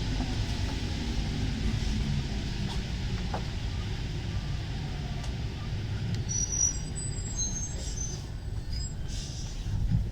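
MP 05 rubber-tyred metro train running and slowing, a steady low rumble that eases off. Faint high squeals come in about two-thirds of the way through.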